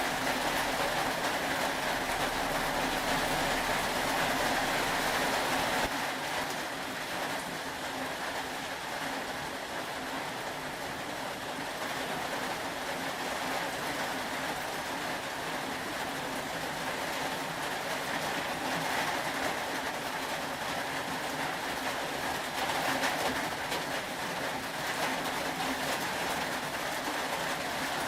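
Steady rain, a continuous even hiss of falling rain, with a slight drop in loudness about six seconds in.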